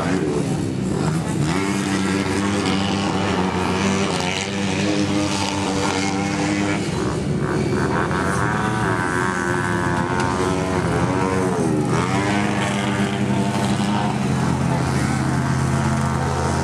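Engines of junior speedway motorcycles running on a dirt track, several at once, their pitch rising and falling as the riders throttle on and off around the bends.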